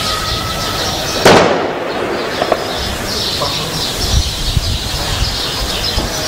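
A single loud gunshot about a second in, cracking and echoing off for under a second, over birds chirping steadily in the background.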